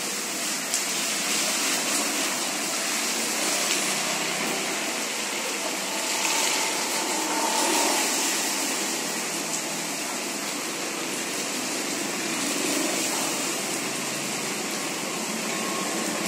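Heavy rain falling steadily on a street and pavement, an even hiss with no breaks.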